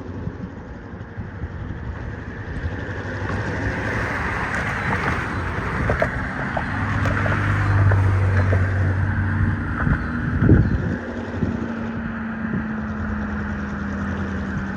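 Freight train on the move in a rail yard: a diesel locomotive engine drones, loudest about halfway through, over the steady rumble of rolling freight-car wheels, with scattered clanks and knocks.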